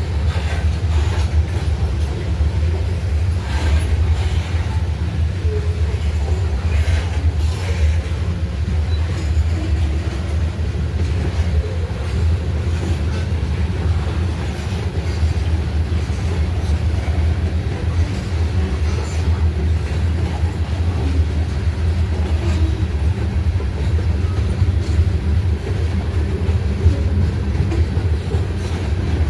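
Train rolling past on the rails: a steady low rumble of wheels on track, with a few light clicks.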